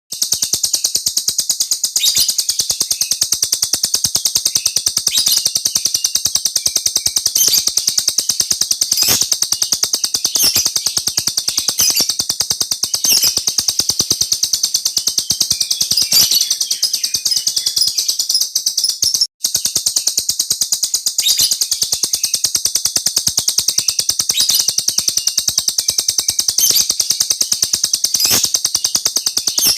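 A small cage bird singing a long, unbroken rolling trill ('ngeroll'): a very rapid, high-pitched chatter with louder accents every second or so. It breaks off for an instant a little after halfway.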